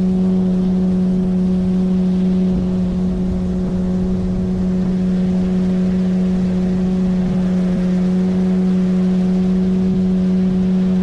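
A 9.8 hp outboard motor running at a steady, unchanging speed, a constant hum with water and wind noise beneath it.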